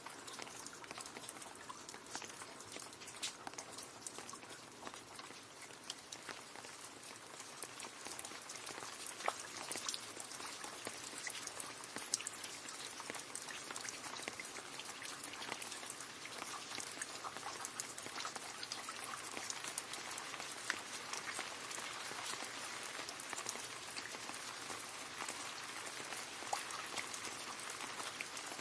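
Steady rain falling into a puddle, many separate drops splashing and pattering on the water's surface.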